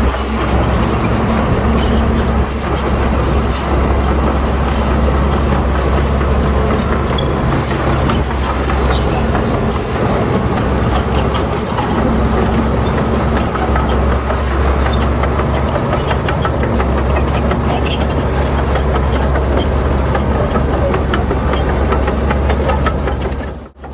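Heavy diesel earthmoving machinery running steadily, with a low engine hum and scattered clicks and clanks.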